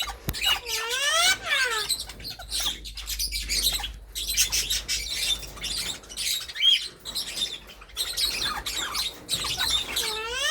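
Pet parrots chirping and squawking, with one clear whistled call that rises and falls about half a second in and another like it at the very end.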